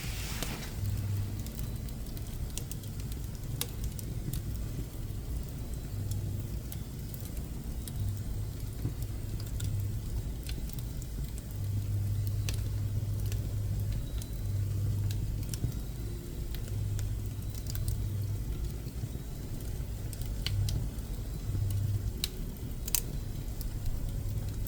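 Pine woodworking offcuts burning in a wood stove, crackling with scattered sharp pops over a low rumble that swells and fades.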